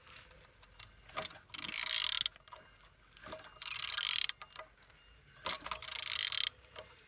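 An engine being turned over by hand, its rotating parts giving three short bursts of rapid clicking and whirring, each under a second, with a few separate clicks between them.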